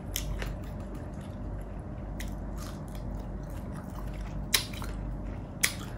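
Close-miked chewing and mouth sounds of a person eating, with about four sharp smacks or clicks spread through.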